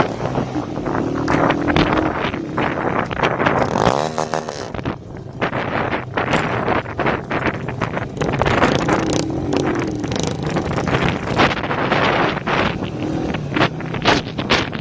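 Straight-piped motorcycle engines revving up and down, with wind noise on the microphone from riding.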